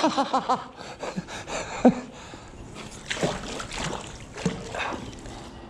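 Water splashing and sloshing with several sharp knocks, after a brief laugh or vocal sound at the very start.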